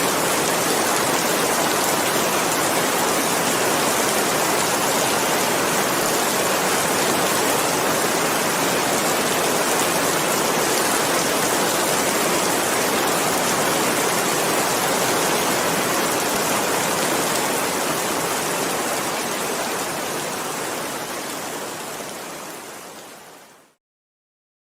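Steady heavy rain, an even rushing hiss with no separate drops standing out. It fades out over the last few seconds and cuts to silence just before the end.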